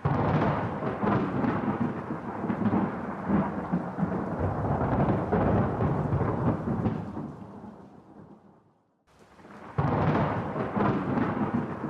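Thunder: a clap that starts suddenly and rumbles for about eight seconds before dying away, then a second clap breaking in near the end.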